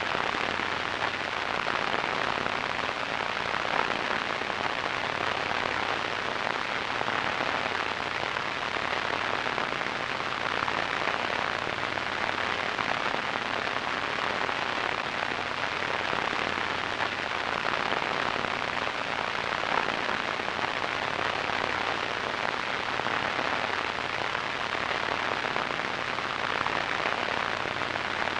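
Radio static: a steady hiss with fine crackle, strongest in the mid and upper range and cut off above about 6 kHz.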